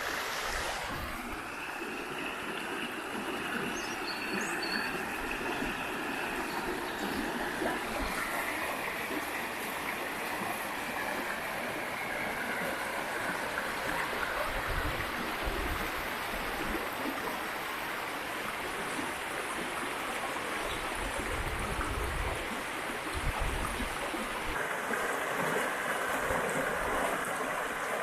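A river running steadily, a constant rush of flowing water. A few short bird chirps come about four seconds in.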